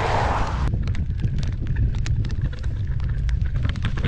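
Wind buffeting the camera microphone in a heavy low rumble, with many scattered sharp clicks and taps. A hiss over the top cuts off abruptly just under a second in.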